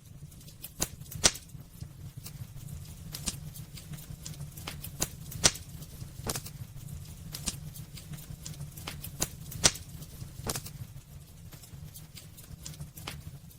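Burning wood in a fireplace crackling: irregular sharp pops and snaps, a few clearly louder than the rest, over a steady low rumble.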